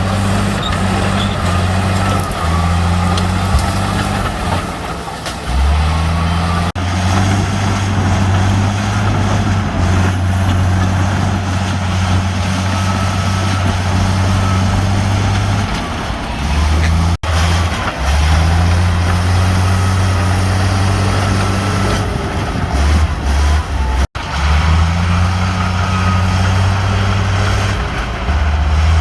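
Heavy diesel engines of bulldozers and dump trucks running under load, a deep steady engine note that steps up and down in pitch as the machines work. The sound cuts out for an instant two or three times.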